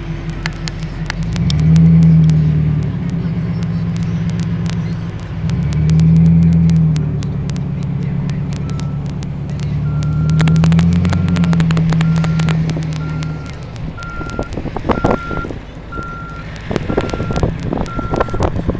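Ford 555 backhoe's diesel engine running and revving up three times under load as it pushes snow. Partway through the engine settles and a backup alarm starts beeping about twice a second.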